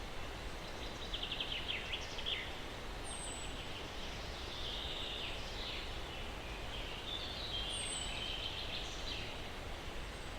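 Steady breeze-like hiss of wind in pine trees, with small birds chirping in three short spells of rapid repeated notes and two faint high falling whistles.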